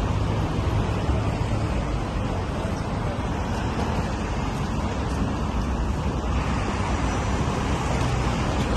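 Steady outdoor street noise: a continuous low rumble with a hiss over it and no distinct events.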